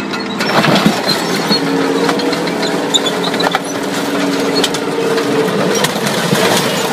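A tank's engine running under load as its tracks climb onto and crush a minivan, with repeated cracks and crunches of the car's body giving way; the first heavy crunch comes just under a second in.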